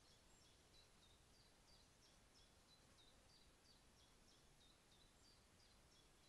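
Faint small bird calling a steady series of short, high notes that each slide downward, about three a second, over a low hiss.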